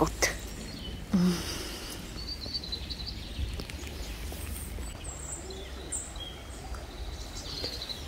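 Faint bird chirps over a steady low outdoor rumble, with one short voice-like sound about a second in.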